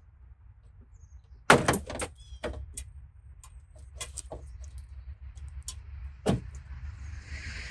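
A sharp clunk about a second and a half in, then scattered clicks and knocks and a second clunk about six seconds in; a hiss builds near the end.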